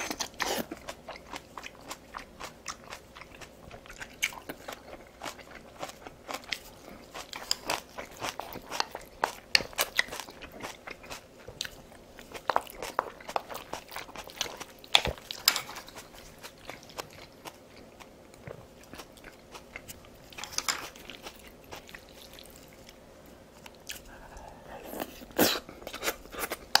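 A person chewing crunchy food, stir-fried kimchi among it, in a dense run of crisp crunches. The crunches thin out for a while and come back louder near the end.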